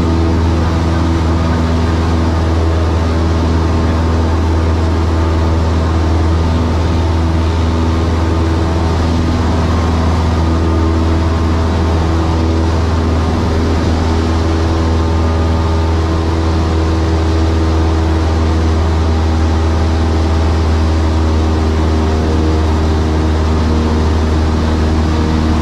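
Cessna 172's piston engine and propeller droning steadily as heard inside the cabin in flight, the pitch shifting slightly now and then.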